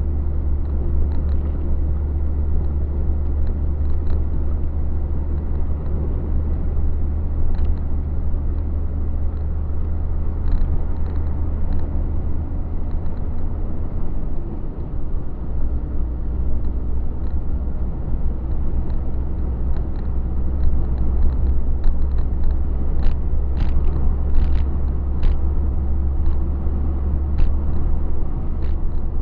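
A truck's engine running under way with a steady low drone and road noise. The drone dips briefly about halfway through and picks up again. A few sharp clicks come near the end.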